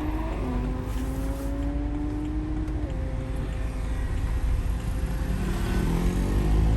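BMW E90 M3's 4.0-litre V8 with a custom exhaust, heard from inside the cabin, pulling through the revs. The revs drop back sharply about a third of a second in and again about three seconds in as it shifts up, hold steady, then climb again near the end.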